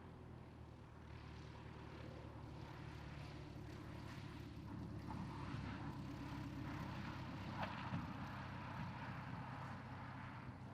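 Light propeller aircraft engine running steadily, growing louder over the first several seconds and easing slightly near the end.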